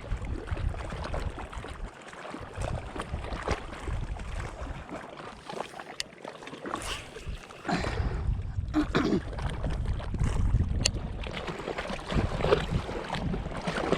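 Wind gusting over the microphone in uneven low rumbles, with lake water lapping and splashing.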